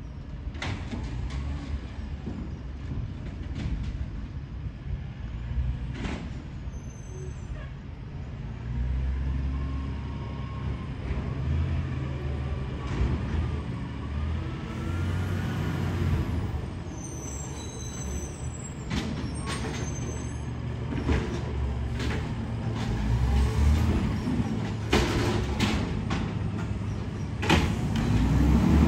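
Garbage truck's diesel engine running in a steady low rumble, with repeated sharp knocks and clanks and a faint whine that rises and falls for a few seconds near the middle.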